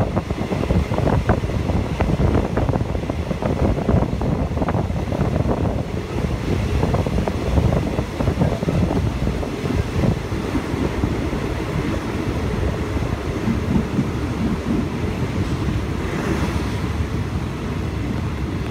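Wind buffeting the microphone from a moving train, over the low rumble and clatter of the train running on the rails. The clatter thins out in the second half as the train runs alongside a station platform.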